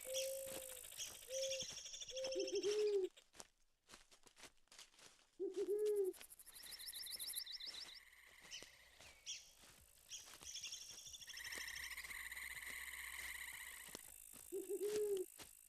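Wild birds calling in a forest: low hooting calls, a few short ones at the start and then a longer arched hoot three times, among higher chirps and trills.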